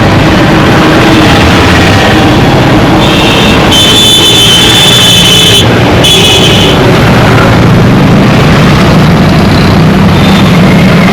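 Dense road traffic: many car and motorcycle engines running at close range in a steady wash of noise. About three seconds in, a shrill high-pitched tone sounds in three spells lasting about four seconds in all.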